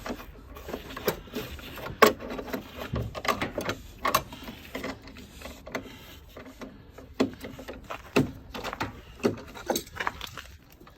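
Irregular sharp metallic clanks and knocks from an old cast iron steam boiler being unbolted and taken apart, the loudest about two seconds in.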